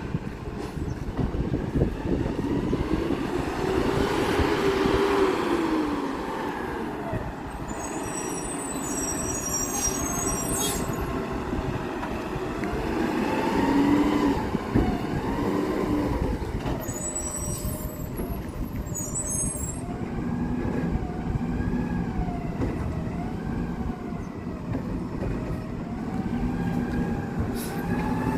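Garbage truck engine running and revving, its pitch rising and falling over and over. High-pitched squeals come in two stretches, about a third of the way in and again past the middle.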